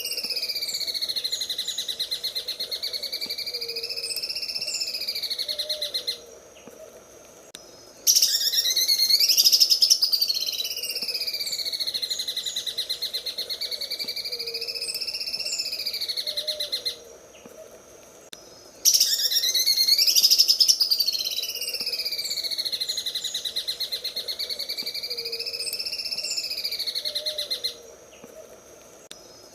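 Green leafbird (cucak ijo) singing its 'sewing machine' song: a very rapid, mechanical-sounding rattling trill that swoops slowly up and down in pitch. It comes in long phrases broken by short pauses about every ten seconds.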